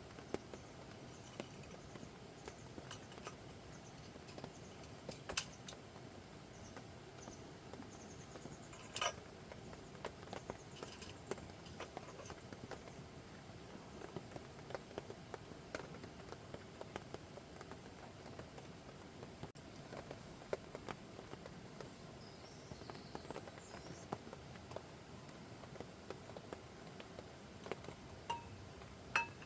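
Irregular sharp crackles and taps scattered over a steady low hiss.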